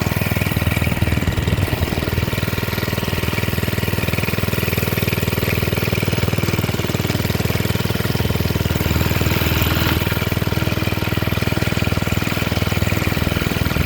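Small minibike engine running steadily, a rapid low firing pulse with no revving up or down.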